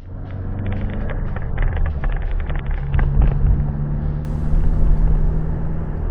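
Motor vehicle driving: steady low engine and road rumble, with a run of rattling clicks over the first few seconds.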